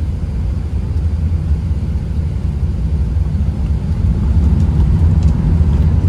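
Airbus A380 takeoff roll heard from inside the passenger cabin: a deep, steady rumble of the engines and runway that grows steadily louder.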